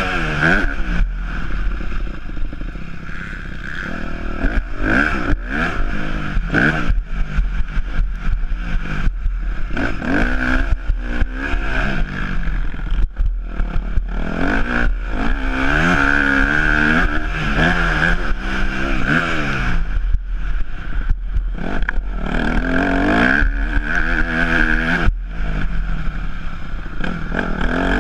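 Yamaha YZ250F four-stroke single-cylinder motocross engine revving up and down again and again as the bike is ridden hard, with brief drops in revs at gear changes and throttle-offs. Knocks and clatter from the bike are mixed in.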